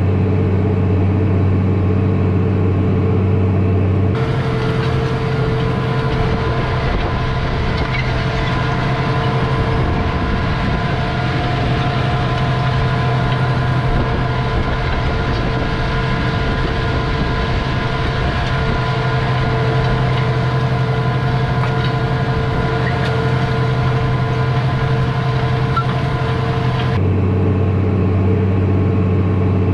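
Tractor engine running steadily. About four seconds in, the sound switches abruptly from a deep, even hum to a rougher, noisier running sound, and it switches back near the end.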